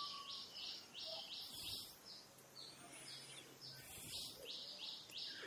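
Faint high chirping from a bird, short calls repeating about three or four times a second over quiet background noise.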